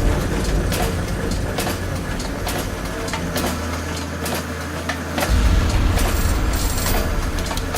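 Machine-shop noise: a steady low machinery hum with irregular metallic clicks and knocks, the hum growing louder a little past halfway.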